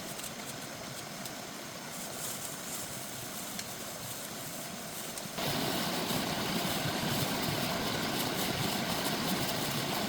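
Steady rushing of flowing water, jumping abruptly to a louder, fuller rush a little past halfway.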